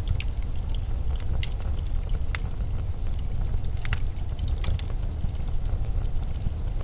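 Steady low rumble of winter storm wind, with scattered sharp crackles of a wood fire on top.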